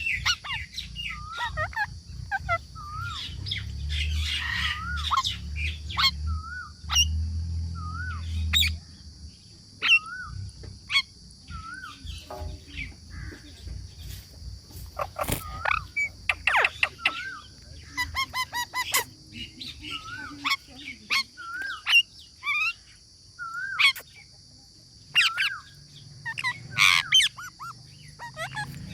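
A pet parrot calling: a short, wavering whistle repeated every second or two, mixed with sharper, louder squawks.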